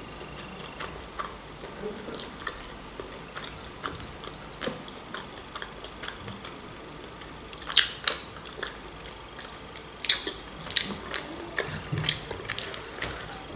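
A person chewing and smacking her lips while eating bits of fried chicken wing meat picked off the bone, with clusters of sharp wet mouth clicks about eight seconds in and again from about ten seconds on.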